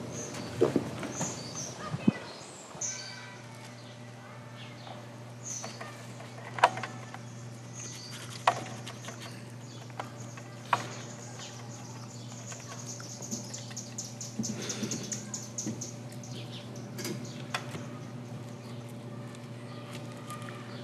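Birds chirping, with a rapid trill about two-thirds of the way through, over a steady low hum. Several sharp knocks or clicks stand out in the first half, the loudest sounds here.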